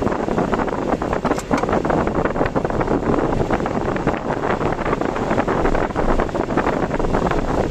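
Typhoon wind and rain on a moving car: a steady rush of wind buffeting with a dense, irregular patter of many small hits.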